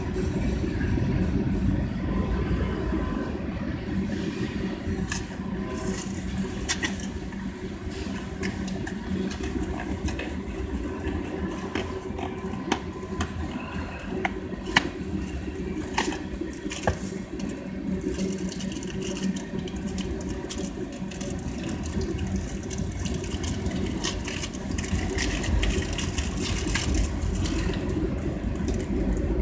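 Mixed freight train cars rolling past at a grade crossing: a steady rumble with rattling and sharp clacks every so often.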